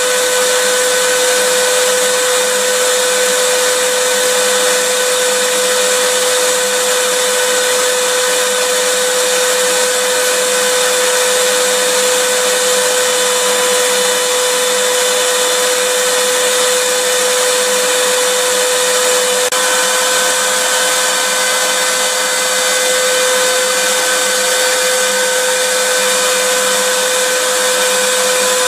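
Vacuum cleaner running steadily: a constant motor whine over a loud rush of air. Its pitch steps up very slightly about twenty seconds in.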